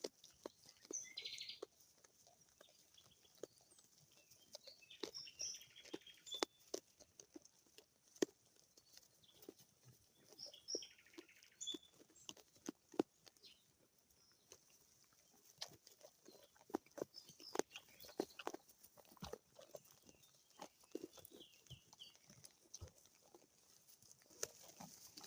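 Sheep grazing close by, tearing at grass and chewing in a quick, irregular run of crisp clicks and crunches. A few faint bird chirps sound now and then.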